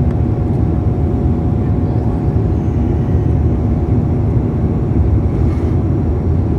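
Airliner cabin noise in flight: a steady, loud rumble of the engines and rushing air, with a faint steady hum above it.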